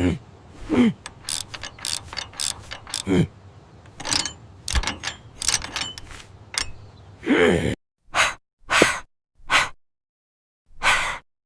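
Rapid mechanical clicking and rattling, like a ratchet or gears being worked, for most of the time. Near the end it gives way to a handful of short, separate bursts of noise with silence between them.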